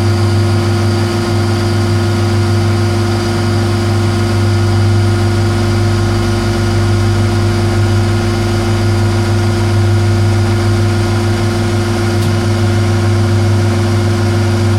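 Metal lathe running steadily under power with a constant low hum, turning down bar stock for a screw during a 1 mm cut.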